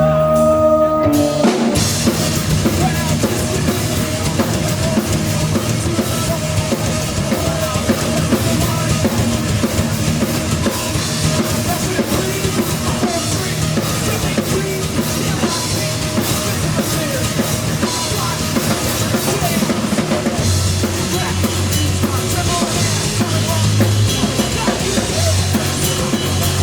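A live rock band playing loud with drum kit, bass and keyboards. A held keyboard chord breaks into the full band about two seconds in, with the kick and snare driving the rest.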